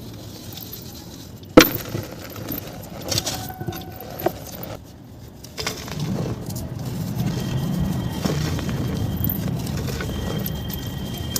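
Dry, crumbly material crushed by hand for ASMR: a single sharp crack about one and a half seconds in, a few small clicks, then from about six seconds a steady dense crunching.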